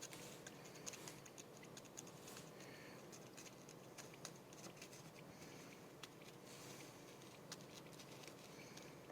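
Faint, irregular small clicks and scratching from hatching quail chicks moving and pecking in the incubator, over a low hiss.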